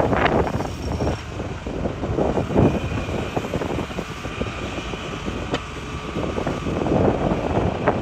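Hitachi excavator's diesel engine running under load, with rock scraping and clattering irregularly against the bucket.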